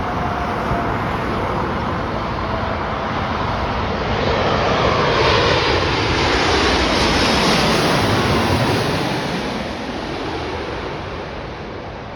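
Jet engines of a Boeing 787-9 Dreamliner arriving at the airport as it flies past: the noise swells to its loudest about halfway through, with a whine falling in pitch as it passes, then fades away.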